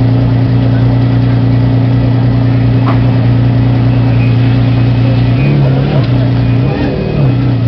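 Maserati MC12's 6.0-litre V12 idling steadily, with a few brief wavers in engine pitch near the end.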